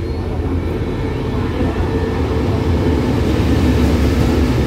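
Diesel locomotive of a passenger express train pulling in alongside the platform to stop, a steady engine rumble that grows louder as it draws close.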